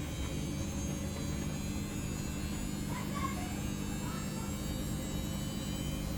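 Samsung ecobubble washing machine running, a steady motor hum over a low rumble.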